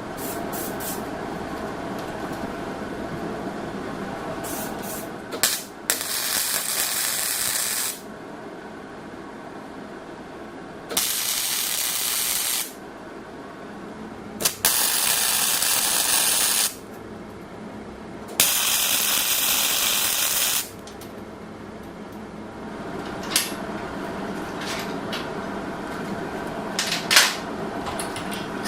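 Welder laying four short tack welds, each a hissing burst of about two seconds, with pauses between them. A steady hum runs underneath, with a few clicks.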